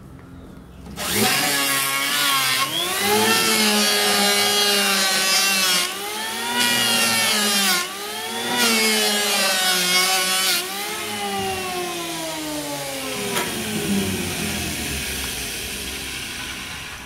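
Electric wood planer machine starting up about a second in with a rising whine. Its cutter head then cuts wood in several passes: a loud hiss with the pitch dipping under load and recovering between passes. In the second half it runs unloaded and its pitch slowly falls as it gets quieter.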